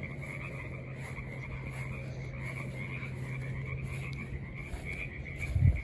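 A chorus of frogs calling steadily in the background, over a low steady hum, with a brief low thump near the end.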